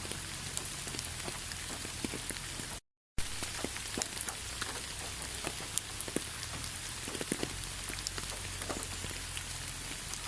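Steady rain falling, with many separate drops ticking over an even hiss. The sound cuts out completely for a split second about three seconds in.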